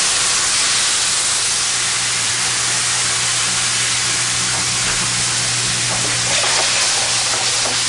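White wine hitting a hot sauté pan of chicken and garlic in olive oil, hissing and sizzling loudly and steadily as it deglazes the pan. A steady low hum runs underneath.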